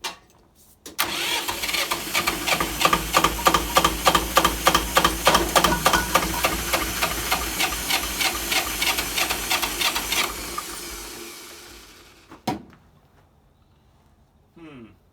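Electric starter cranking the 18 hp JT diesel engine of a 1980s Jiangxi tractor for about nine seconds, with an even pulse of about five compression strokes a second, then running down to a stop without the engine catching. A single sharp click follows about a second later.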